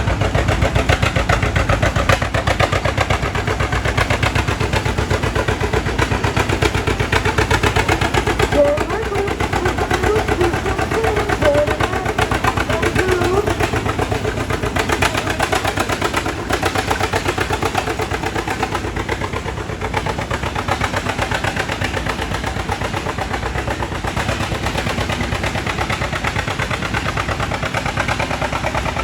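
Antique tractor engine running hard under load as it pulls the weight-transfer sled down the track, its exhaust beats coming rapidly and evenly throughout.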